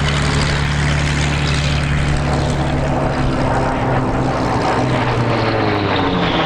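Grumman F8F Bearcat's Pratt & Whitney R-2800 radial engine running hard as the fighter flies its display, a loud steady propeller drone whose pitch drops near the end as it passes.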